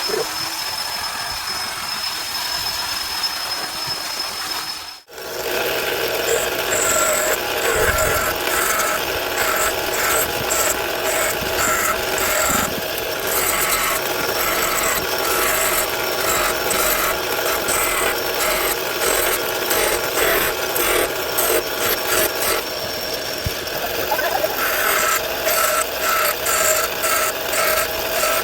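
Electric power sander running against wood, a steady motor drone with a rough back-and-forth scrubbing over it, briefly cut off about five seconds in.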